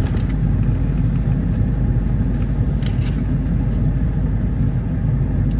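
Diesel pickup truck engine idling steadily with a low rumble, with a faint click about three seconds in.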